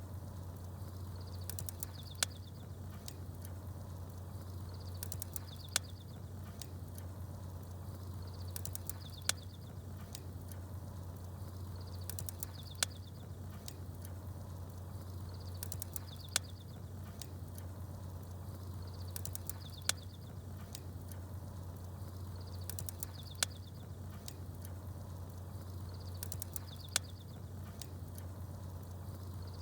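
Campfire crackling with sharp pops at even intervals of about three and a half seconds, small birds chirping high above it, over a steady low hum.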